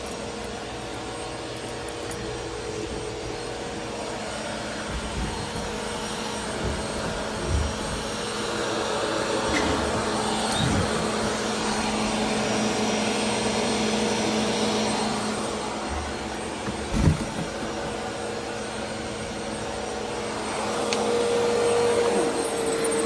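Vacuum cleaner running steadily over a store floor, a constant motor hum with a whirring tone, and two brief knocks as it is pushed about. Near the end the motor tone grows stronger and louder.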